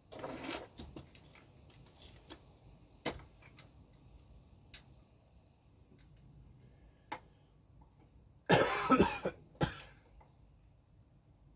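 Small plastic resin model parts being handled at the bench: scattered light clicks and knocks, with a louder rasping burst about eight and a half seconds in.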